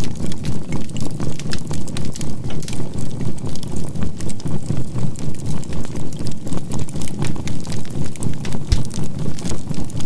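Campfire of burning charcoal crackling with many small pops, under a low synthesized tone that swells and fades evenly about three to four times a second: a binaural beat, laid with a 528 Hz healing tone.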